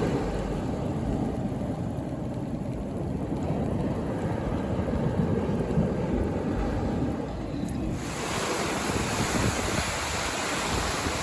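Wind buffeting the microphone over the wash of ocean surf. About eight seconds in, the sound switches abruptly to a brighter, hissier wash of surf.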